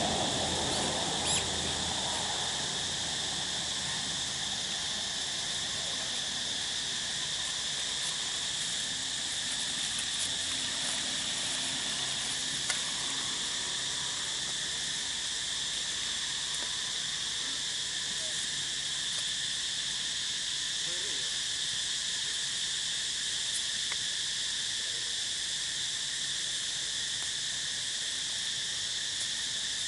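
Steady insect chorus: a continuous high-pitched drone that does not let up, with a brief click about a second in and another near the middle.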